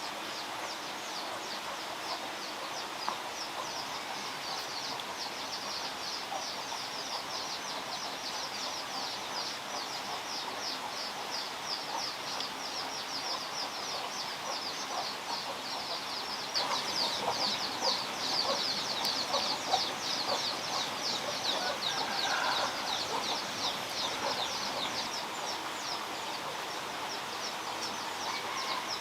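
Birds calling: a continuous run of short, high chirps, several a second, with lower clucking calls that grow louder about halfway through.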